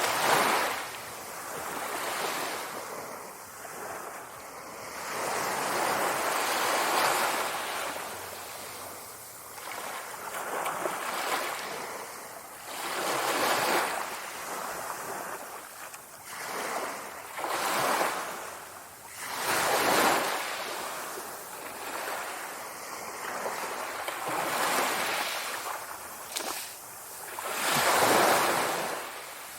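Sea waves surging and washing back in irregular swells every few seconds. The loudest swells come about a second in, around twenty seconds in, and near the end.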